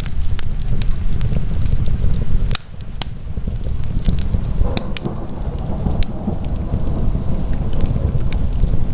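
Wood fire burning in a fireplace: scattered sharp crackles and pops over a steady low rumble. The rumble drops off briefly about two and a half seconds in.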